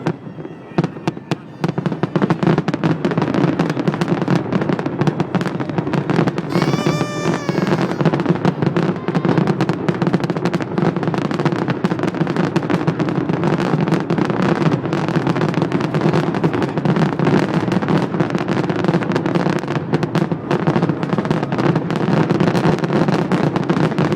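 Fireworks display: a dense, continuous barrage of bangs and crackles that builds up about two seconds in. A brief wavering whistle sounds about seven seconds in.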